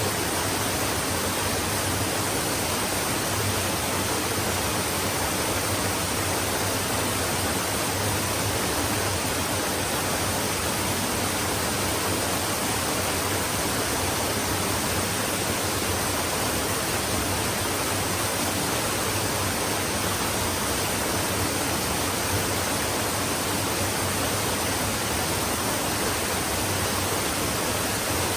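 A flowing stream: steady, even rushing of running water with no breaks or distinct splashes.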